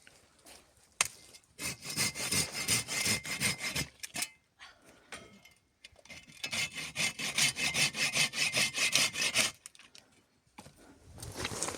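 Hand saw cutting wood in quick, even back-and-forth strokes, in two bouts with a pause between them.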